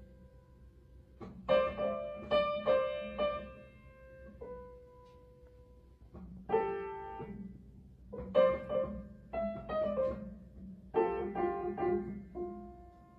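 Background piano music: short phrases of struck notes that ring out and fade, separated by pauses.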